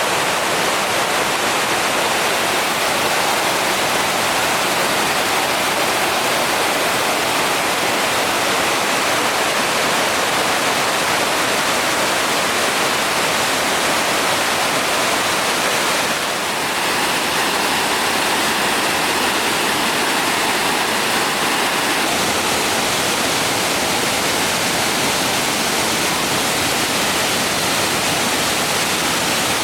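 Fukiwari Falls pouring: a loud, steady rush of falling water.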